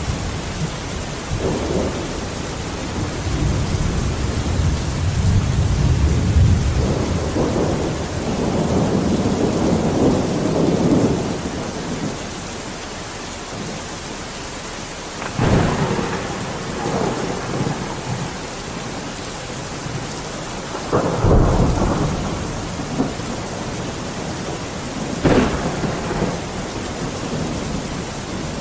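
Steady rain with rolling thunder: a long low rumble in the first half, then three sharper thunder cracks, at about 15, 21 and 25 seconds in.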